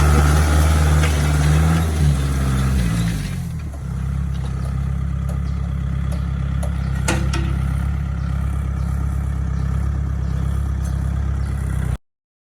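Tractor engine running hard, then dropping to a slower, steady idle about three seconds in, with a few metallic clanks.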